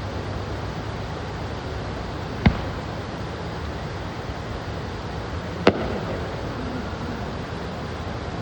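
Two firework bursts, sharp bangs about three seconds apart, the second louder with a short echoing tail, over a steady rushing background noise.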